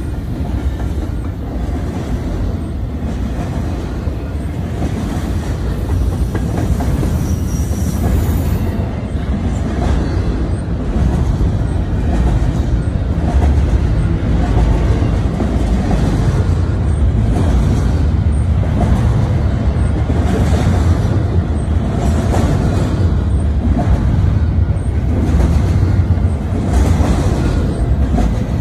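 Double-stack container freight train rolling past: the steady noise of its wheels running on the rails, growing a little louder after about ten seconds.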